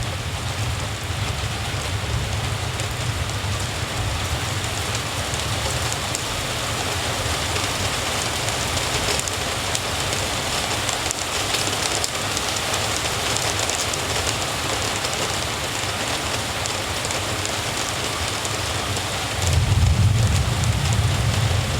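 Steady rain falling on hard surfaces, an even hiss. Under it a deep low rumble fades out in the first few seconds and swells back up louder near the end.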